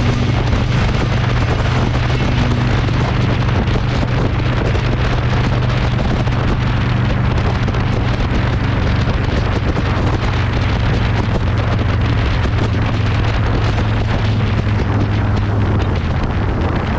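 Harley-Davidson Low Rider S V-twin engine running at a steady cruise, under heavy wind rush on the microphone.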